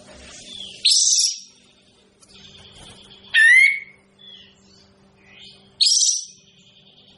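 Kapas tembak songbird giving three loud, short calls about two and a half seconds apart. The first and last are harsh and buzzy; the middle one is a clear, sharp whistle sweeping down in pitch. Softer chirps come in between, over a faint steady hum.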